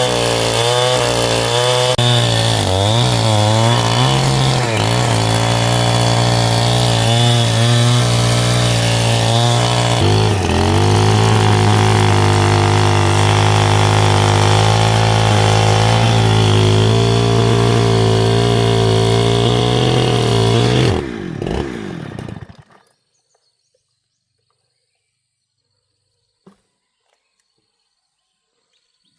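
Chainsaw engine running hard, its pitch rising and dipping for the first several seconds, then held steady before it winds down and stops about 21 seconds in. After that there is near silence and one faint click.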